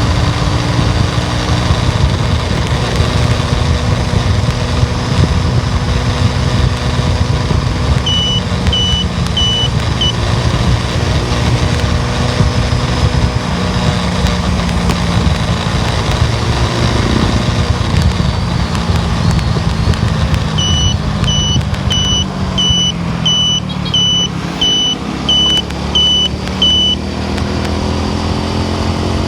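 Car engine and road noise while driving, steady and low, with the engine note shifting in pitch in the second half. A high electronic beep repeats about twice a second, four times about a third of the way in and about ten more times in the second half.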